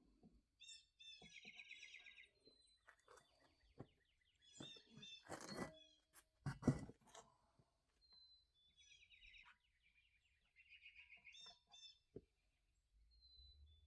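Faint, repeated bird chirps and calls, with a few soft knocks and a brief scraping sound from handling near the middle; the loudest is a knock a little past halfway.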